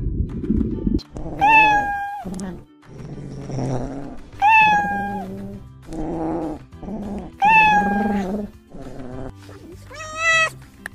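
Domestic cat meowing: three drawn-out meows about three seconds apart, then a higher, shorter mew near the end, over background music. A low rumble runs for about the first second and cuts off.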